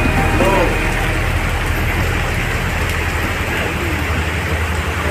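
Heavy rain pouring onto a flooded road, a steady hissing splash, over the low rumble of passing traffic.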